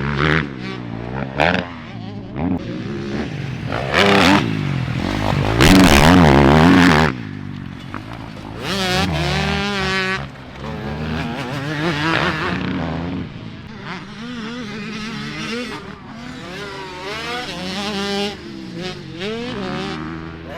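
Motocross dirt bike engines revving up and down repeatedly as the bikes are ridden on the track, loudest about four to seven seconds in.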